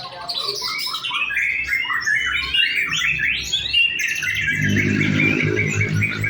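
White-rumped shama singing a rapid, varied run of whistles and chirps. A low, steady hum joins in about four seconds in.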